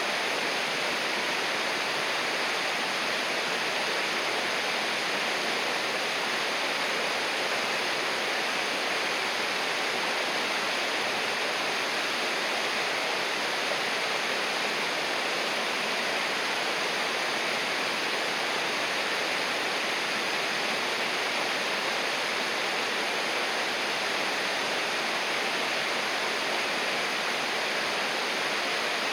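River water rushing steadily, an even, unbroken rush with no changes.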